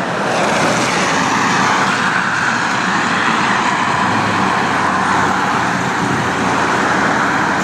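A car being driven, its steady engine and tyre noise heard from inside the cabin, growing a little louder in the first second and then holding steady.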